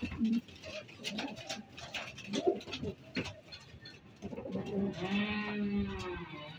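Pigeons cooing, low and soft, with scattered small clicks and taps. Music starts near the end.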